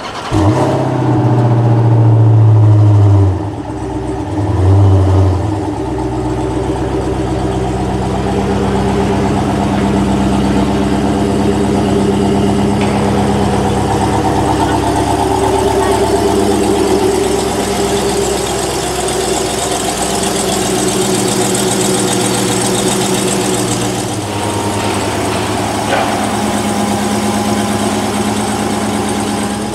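V8 muscle car engine revved loudly twice in the first few seconds, then idling steadily, with the engine note changing about 24 seconds in.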